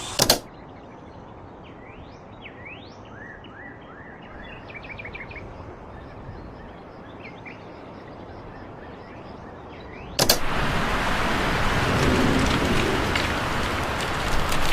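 Songbirds chirping, with repeated quick rising calls over a faint outdoor background. About ten seconds in, a sharp click and a much louder steady rushing noise cut in.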